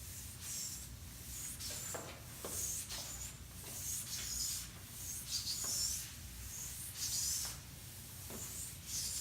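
An eraser wiping a board in a run of short, irregular, hissy strokes as the previous working is cleared.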